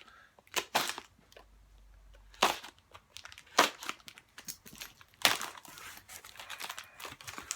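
Tape on a mail package being cut with a knife and torn off, several sharp rips and snaps among crinkling.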